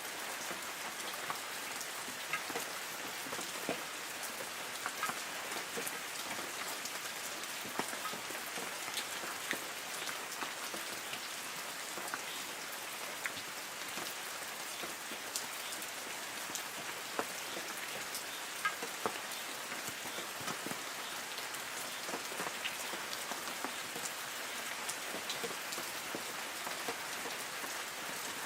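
Light rain falling on forest trees: a steady hiss of rainfall with many separate drops ticking on leaves.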